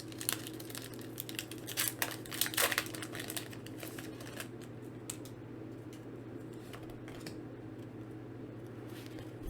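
Foil Pokémon booster pack crinkling and tearing as it is opened, with short crackly rustles for the first few seconds, then quieter handling of the cards. A steady low hum runs underneath.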